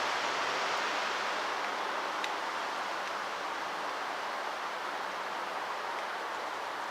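A train's rolling noise, a steady rushing hiss that slowly fades as it moves away.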